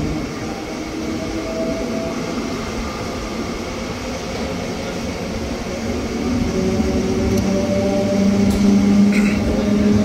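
Mumbai suburban electric local train running along the track, heard from aboard: a steady rumble with motor hum that shifts in pitch. It grows a little louder in the last few seconds.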